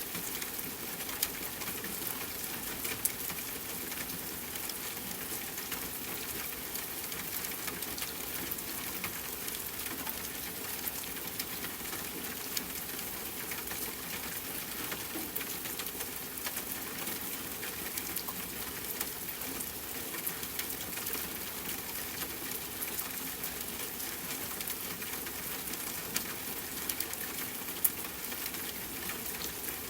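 Steady rain falling on a tent, mixed with a campfire crackling. The dense hiss is dotted with fine ticks, and a few sharper pops stand out about a second in, about three seconds in and twice near the end.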